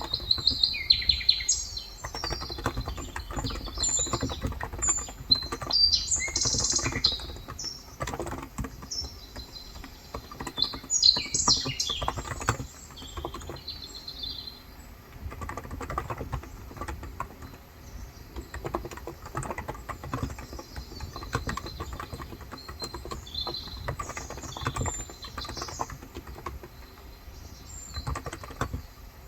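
Birds chirping, busiest in the first half, over steady typing on a Cox Endeavour 35 g electrocapacitive tenkeyless keyboard, its keys clicking softly throughout.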